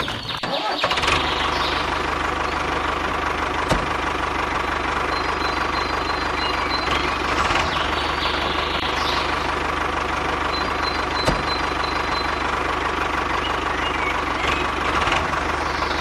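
A motor starts about a second in, then runs steadily at an even pitch with a constant hum.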